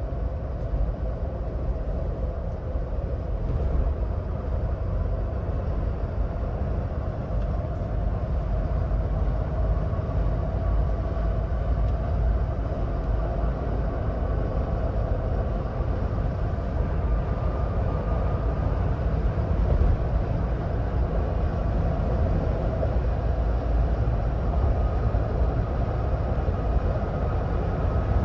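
Ford Bronco Badlands driving at highway speed: a steady rumble of tyres, road and engine, with a faint whine that rises slightly in pitch in the second half.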